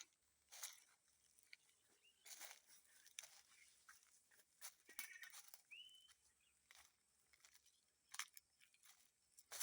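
Faint scattered crackling rustles, with two short chirps from a small animal, each sweeping up and then holding briefly, about two seconds in and near six seconds.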